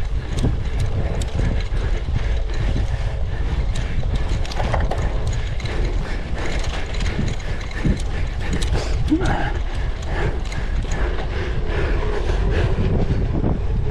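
Cyclocross bike rattling over rough ground: dense, irregular clicking and clatter from the chain and drivetrain over a steady low rumble.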